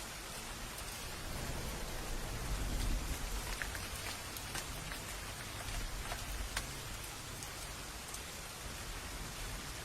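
Steady rain falling, with a few sharp drops ticking close by. A low rumble of distant thunder swells up around two to three seconds in.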